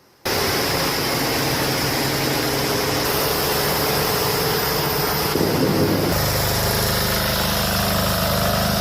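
Heavy truck engine running steadily, its note dropping lower and stronger about six seconds in.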